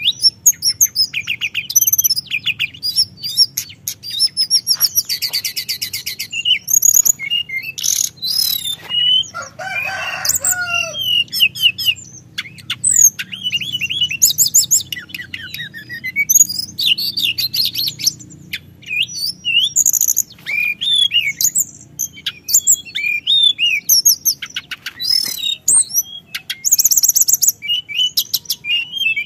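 A teledekan gunung songbird singing continuously in long rolling phrases of rapid, high chirps and trills, with a lower warbled phrase about ten seconds in. A faint steady hum runs underneath.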